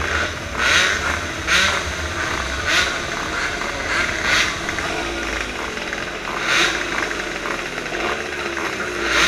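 115cc racing motorcycle engines idling on the start line, with about half a dozen short throttle blips at irregular intervals.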